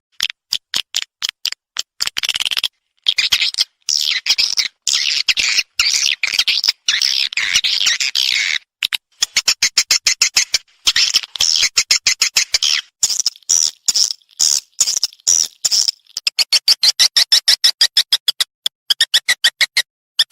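Swiftlet calls: loud, rapid chattering chirps in quick pulses, turning into an evenly spaced run of about five clicks a second near the end. It is a swiftlet call recording of the kind played to draw swiftlets into a nest house.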